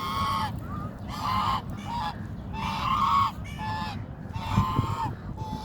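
Domestic goose honking repeatedly, about seven short pitched honks in irregular succession, some longer and louder than others.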